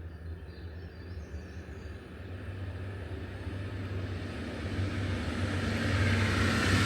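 A train approaching the level crossing, its rushing noise growing steadily louder through the second half, over a steady low hum.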